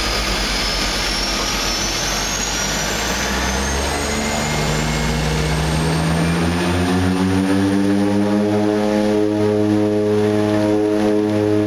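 De Havilland Canada DHC-6 Twin Otter's turboprop engines and propellers running up to takeoff power: a high turbine whine climbs in pitch over the first three seconds, then the propeller drone rises in pitch from about four to eight seconds in and holds steady and loud.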